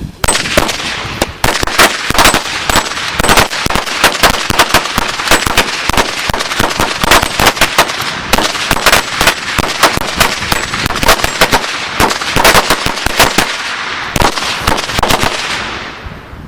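A string of DOT Red Lantern Supercharged 100s firecrackers going off: a fast, irregular crackle of sharp bangs for about sixteen seconds, thinning out near the end.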